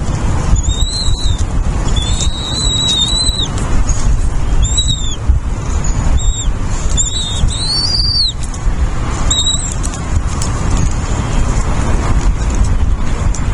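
A bird's high, thin whistled calls, repeated about eight times in short arched notes over the first ten seconds, above a loud steady low rumble.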